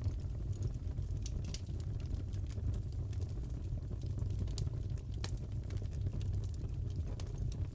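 Crackling log fire: a steady low rumble of burning with irregular sharp pops and snaps scattered through it.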